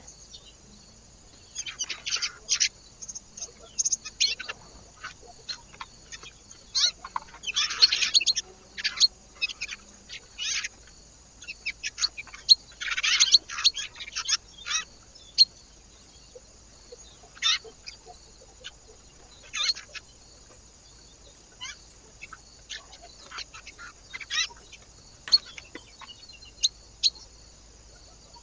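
Small birds chirping at a feeder: bursts of short, sharp calls, busiest in the first half and thinning out toward the end.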